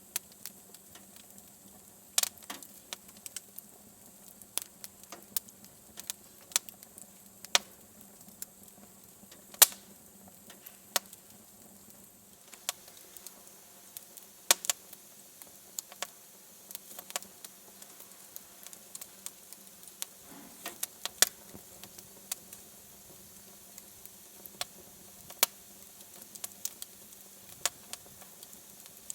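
Wood fire in a fireplace crackling: irregular sharp pops and snaps over a faint steady hiss, with the loudest pop about ten seconds in.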